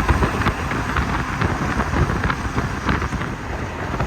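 Semi-truck cab noise on the highway: a steady low rumble of engine and road with many irregular small clicks and rattles.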